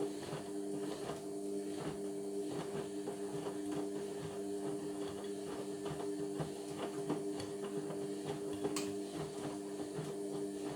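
Indesit washing machine running mid-way through a Cotton 60 cycle: a steady motor hum with irregular light clicks and knocks from the drum and its load.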